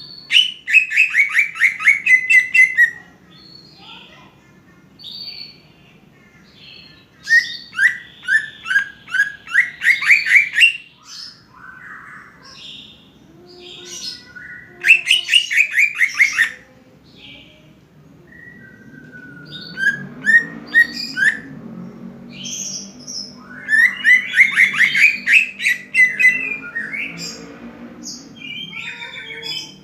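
Cucak ijo (greater green leafbird) singing: loud phrases of rapid, sharp repeated notes that slide down in pitch, each phrase lasting a couple of seconds with short gaps between them. A faint low drone sits underneath in the second half.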